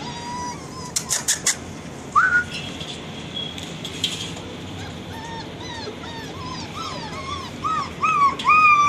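Rottweiler puppies whining and whimpering in short high-pitched arched cries. The cries come faster and louder near the end into a steady run of whines. A few sharp clicks sound about a second in.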